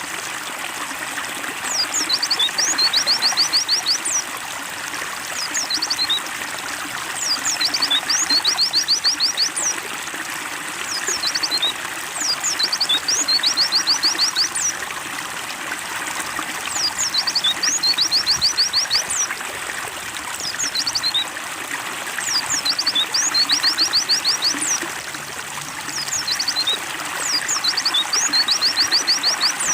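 Trickling water running steadily, with a white-eye (pleci) singing over it. The bird gives high, rapid chirping phrases, each a quick run of notes, about every two seconds.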